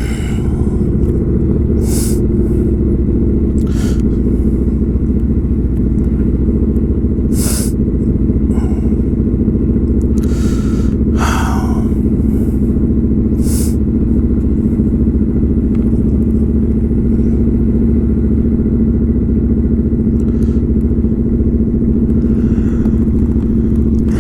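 Kawasaki Vulcan 900's V-twin engine running steadily, with a few short bursts of higher noise over it.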